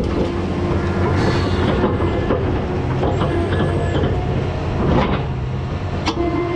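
Heavy tree-cutting machine running with a steady whine and low hum, broken by a few sharp cracks and snaps, one near the start, one about a second in, and two around five and six seconds in.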